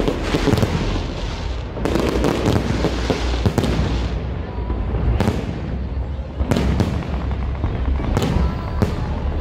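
A fireworks display at full intensity: aerial shells bursting in quick succession, sharp bangs every second or two over a dense crackle and a steady low rumble.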